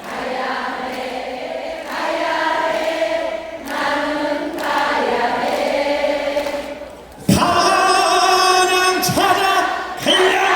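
A large audience singing a chorus together in unison without accompaniment, in phrases with short breaths between them.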